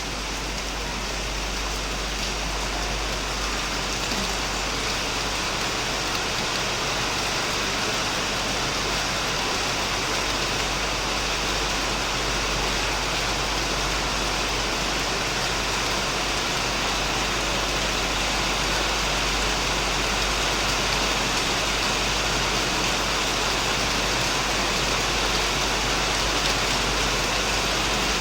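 Heavy rain falling steadily on a shed roof and surrounding plants, an even dense hiss of drops.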